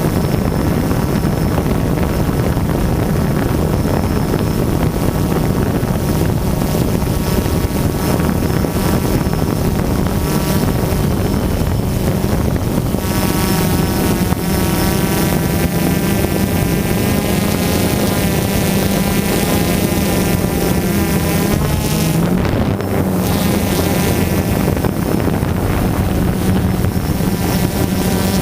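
DJI Phantom quadcopter's motors and propellers running, heard up close as a steady hum with wind noise on the microphone. A stack of higher, slightly wavering whining tones joins about halfway through and drops away a few seconds before the end.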